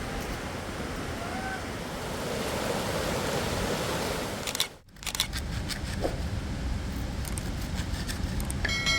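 Steady rushing of fast river water, cut off briefly about halfway through.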